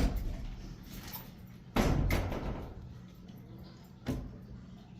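A sudden handling bump with a short rustle about two seconds in, and a shorter knock near the end, over a steady low hum.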